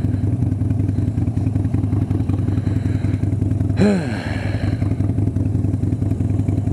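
Harley-Davidson Sportster's air-cooled V-twin engine running steadily under way, with a throbbing low note. About four seconds in, a brief vocal sound from the rider rises over it.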